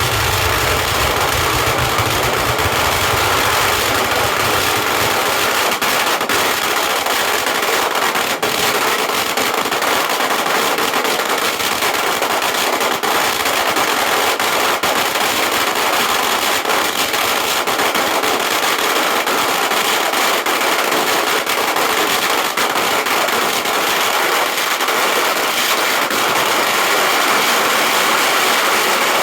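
A string of firecrackers going off in a rapid, unbroken crackle of loud pops.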